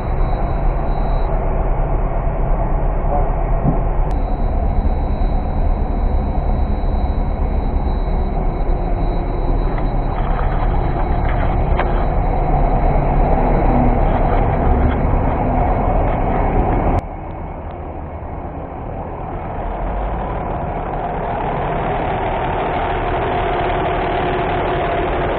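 A heavy vehicle's engine running steadily with a deep rumble. About 17 seconds in, the sound drops suddenly to a quieter level, then builds up again a few seconds later.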